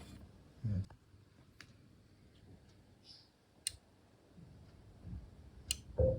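A few faint, sharp clicks spaced a second or two apart, with soft low knocks near the start and end: a small plastic Bluetooth adapter being handled.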